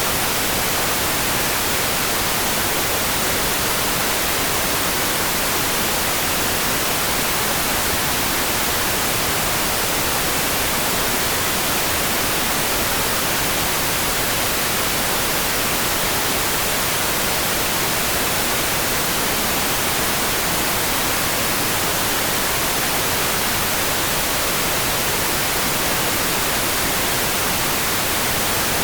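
Steady, unbroken hiss of rain-like white noise, even in level and brighter in the treble, with no separate drops, thunder or other events.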